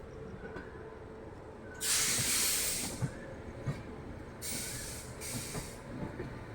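Passenger train's compressed air venting in loud hisses, typical of air brakes being applied or released: one long hiss about two seconds in, then two shorter ones, over a low rumble with a few faint knocks.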